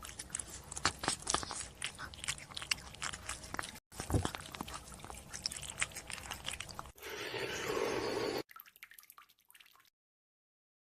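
Close-up mouth noises of someone chewing: irregular wet crunching and smacking clicks, broken by a short pause about four seconds in. They are followed by a steadier wet noise lasting about a second and a half.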